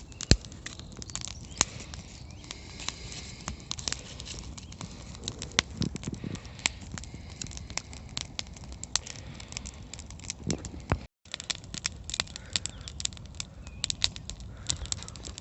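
Dry wood snapping and crackling in many sharp, irregular cracks, as from a campfire or from dry twigs breaking. The sound cuts out briefly about eleven seconds in.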